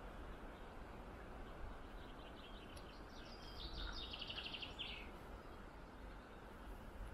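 A songbird singing one short phrase of quick high notes that ends in a fast trill, about two to five seconds in, over a steady low rush of outdoor background noise.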